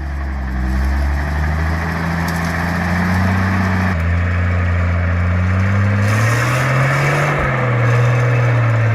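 Heavy Star 660 truck engine running loud and steady, with an abrupt change in the sound about four seconds in and the engine note rising around six seconds in as it revs up.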